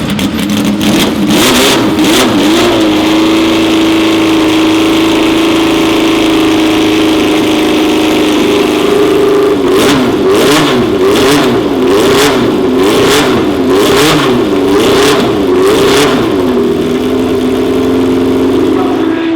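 Racing car engine held at steady revs for several seconds, then blipped up and down in a quick series of throttle stabs, then held steady again before the revs drop away near the end. The pitch doesn't sweep past, so the car stays in one place.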